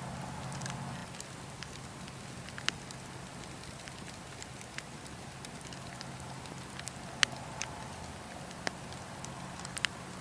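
Burning wood crackling: a steady low rush of the fire under scattered sharp pops, the loudest about seven seconds in.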